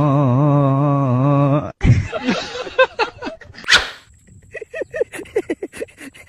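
Dog vocalising: a long, wavering, pitched tone for the first couple of seconds that cuts off suddenly, then scattered noises and a quick string of short yips and whimpers.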